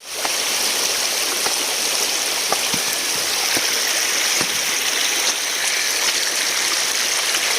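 Fast-flowing floodwater rushing steadily, a loud even hiss with a few faint clicks.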